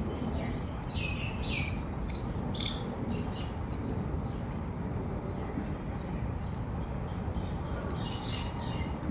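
Steady high insect drone, like crickets, with a few short bird chirps about a second in and again near the end, over a constant rumble of background noise.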